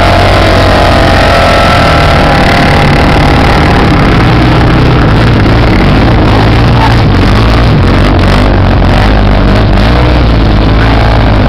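Off-road motorcycle engines running and revving, very loud, with the pitch rising and falling in the first few seconds.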